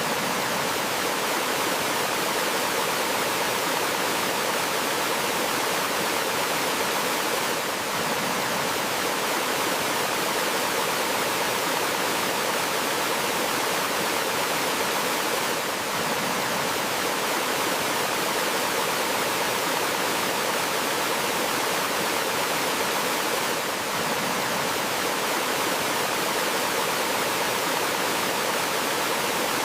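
Running water of a forest stream and small waterfall: a steady, even rush with only slight brief dips about every eight seconds.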